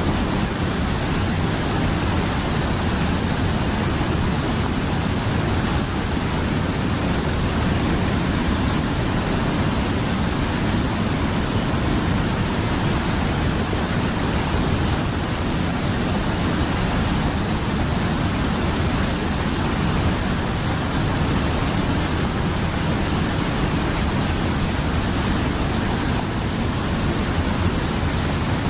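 Mountain river rushing steadily, a dense even roar of flowing water.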